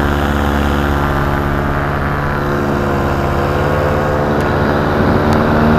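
Paramotor engine and propeller running steadily in flight, growing a little louder near the end.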